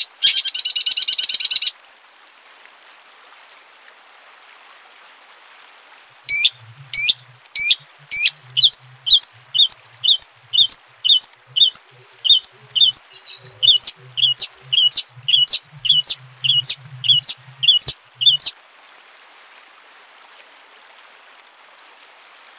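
Recorded songbird calls: a fast rattling trill for the first two seconds, then a pause with faint hiss. A long run of sharp, down-slurred notes follows, about two a second for some twelve seconds, before it breaks off.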